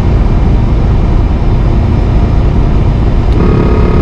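Steady cab rumble of a semi truck driving at highway speed. Near the end a steady electronic warning tone sounds from the dash, the lane departure warning going off when the system picks up a groove in the road rather than a real lane drift.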